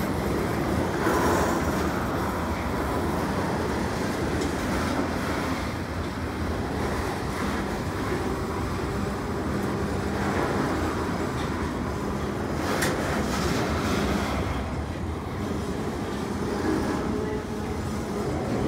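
Intermodal freight train's container well cars rolling past: a steady rumble of steel wheels on rail, with a sharp clank about two-thirds of the way in.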